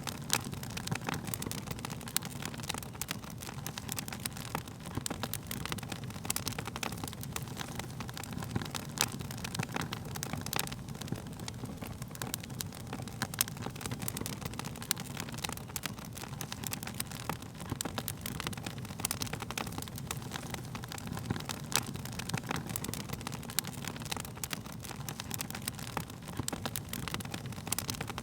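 Wood fire crackling steadily: frequent sharp pops and snaps of burning wood over a low rushing of flames.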